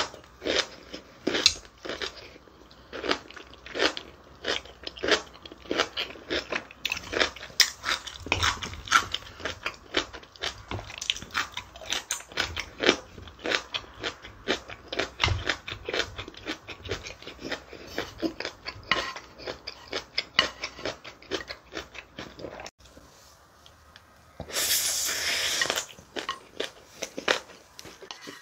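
Close-miked chewing of mouthfuls of bibimbap (rice mixed with seasoned vegetables and gochujang): wet mouth clicks and smacks, several a second. Near the end comes a brief rush of hiss-like noise lasting about a second and a half.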